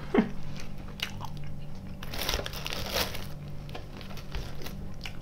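A person chewing sweets close to the microphone: crunching and small clicks, with a longer stretch of rustling crunch about two seconds in, over a low steady hum.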